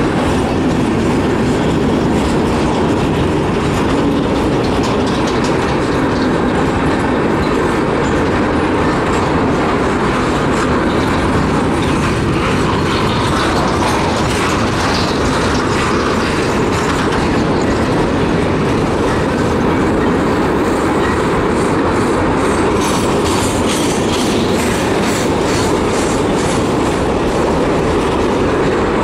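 Freight train of covered boxcars rolling past close by, steel wheels rumbling steadily and clacking over the rail joints, with sharper clattering from about three-quarters of the way in.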